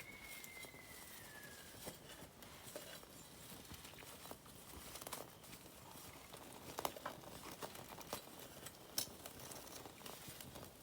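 Wood campfire burning, with faint steady crackling and scattered sharp pops, two louder ones about seven and nine seconds in.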